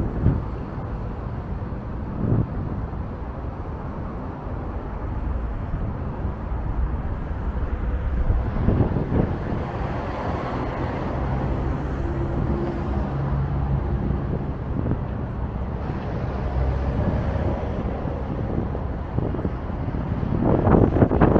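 Strong wind buffeting the microphone in gusts over street traffic, with vehicles passing. The gusts swell about nine seconds in and again near the end.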